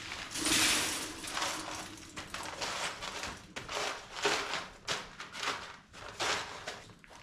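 Paper rustling and crinkling in a run of irregular bursts as it is handled and fitted into a bird cage.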